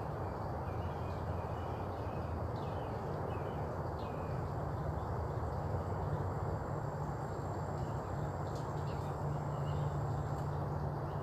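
Outdoor ambience: a steady background hum with faint, scattered bird chirps, and a thin high steady tone for a few seconds past the middle.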